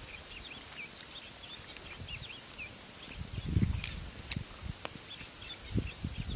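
Small birds twittering in quick, short chirps, pausing briefly in the middle. A few low thumps about halfway through and a couple of sharp clicks are the loudest sounds.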